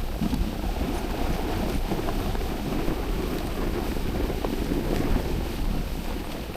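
Wind buffeting the microphone: a steady low rumbling rush with a few faint ticks.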